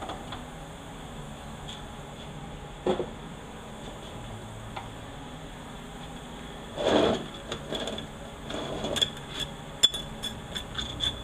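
Metal parts of a 4L80E automatic transmission being handled during teardown. There is a single knock about three seconds in and a short clunk about seven seconds in. In the last few seconds comes a run of light metallic clinks and clicks.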